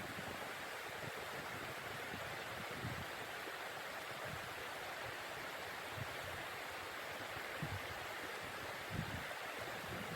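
A steady rushing noise, with a few soft low thumps scattered through it.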